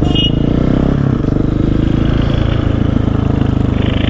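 Dirt bike engine running steadily while riding down a street, heard from the rider's own bike.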